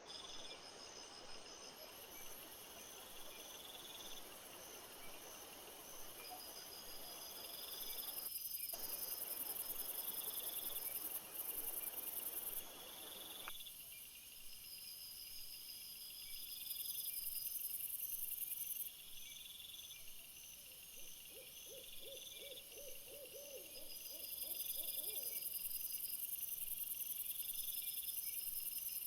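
Crickets and bush-crickets chirping in a continuous night chorus, the high trilling songs swelling and fading every few seconds. A short, fast run of low hoot-like pulses comes about three-quarters of the way in, fitting an owl. A background hiss cuts off suddenly about halfway.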